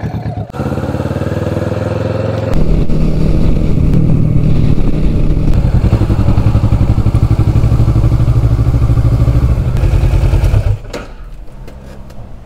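Sport motorcycle engine heard close from on the bike, pulling away with a rising note, then running louder under throttle while riding, and dropping back to a quiet low idle near the end.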